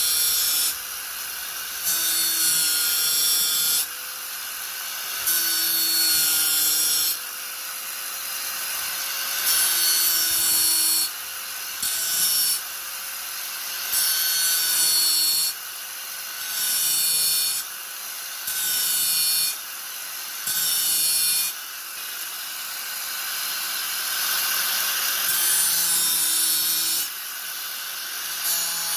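Angle grinder running steadily, its disc pressed into the work again and again: about ten harsh grinding passes of a second or two each, with the motor running free in between.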